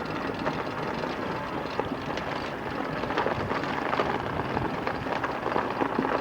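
Vehicle tires rolling over an ice-covered road with gravel on it: a continuous crackle of popping and cracking.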